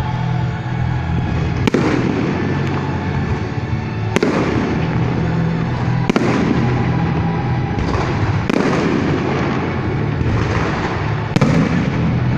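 Aerial fireworks bursting: about five sharp bangs a couple of seconds apart, each followed by crackling, over a steady low drone.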